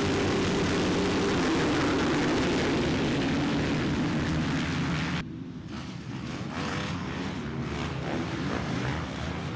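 Motocross bike engines running hard on track: a loud, steady engine drone for about five seconds, then a sudden drop to quieter engine notes rising and falling in pitch as the bikes rev.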